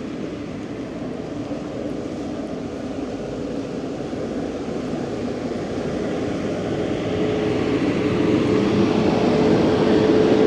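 A motor vehicle drawing closer in street traffic, its steady hum growing louder over the last few seconds.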